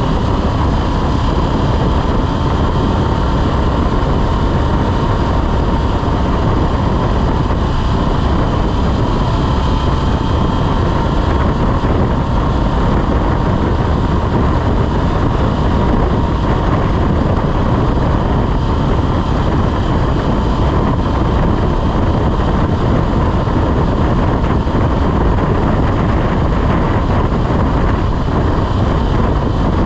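Motorcycle on the move at a steady speed: engine and road noise under heavy wind rushing over the microphone, with a faint steady whine.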